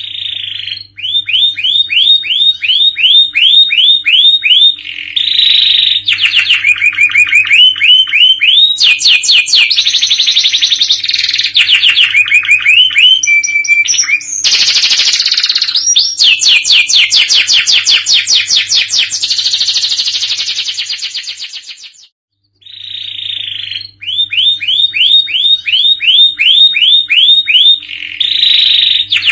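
Canary singing a long, loud song of fast trills and rapidly repeated rolling notes. It breaks off briefly about three-quarters of the way through, then starts again.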